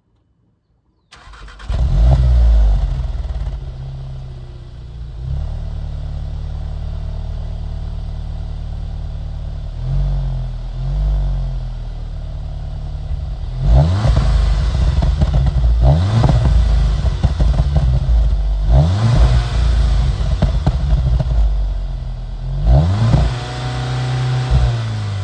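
Volkswagen Golf Mk7 R's 2.0-litre turbocharged four-cylinder (EA888) exhaust: the engine starts about a second in with a loud flare, settles to a steady idle, then is revved in a series of quick blips through the second half.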